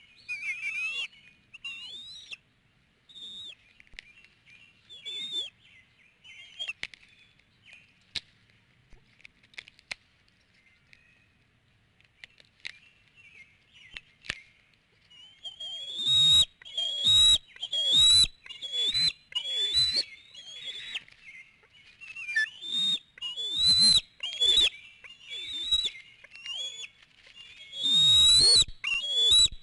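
Bald eagles at the nest calling in high, rising whistled chirps. The calls are scattered and faint at first, then come loud and fast in quick series from about halfway.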